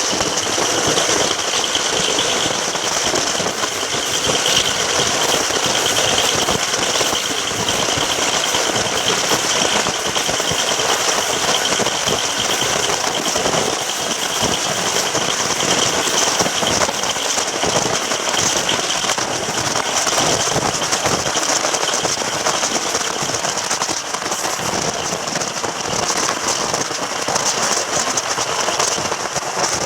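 Railway train running: a steady, loud rush of noise with a fast continuous rattle.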